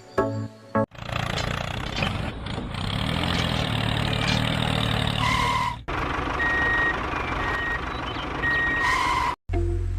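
Vehicle engine running steadily, with several short high beeps like a reversing alarm in the second half. Brief music at the start and at the end.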